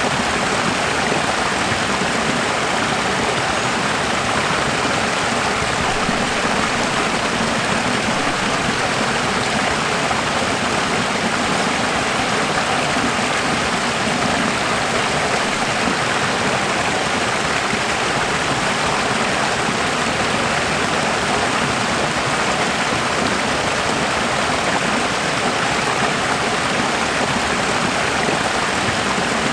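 Running water flowing in a steady, even rush that does not change.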